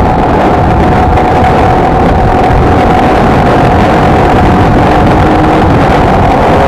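Honda XLR125R's single-cylinder four-stroke engine running steadily at an even cruising speed, with wind rushing over the microphone.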